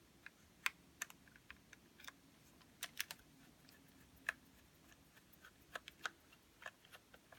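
Faint, irregular clicks and ticks of small screws being worked out of a model locomotive's plastic packaging, with the plastic parts being handled.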